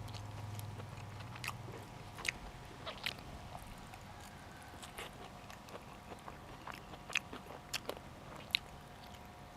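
A person chewing and biting food with the mouth close to the microphone, with scattered sharp crunchy clicks. A low hum sounds for about the first two seconds.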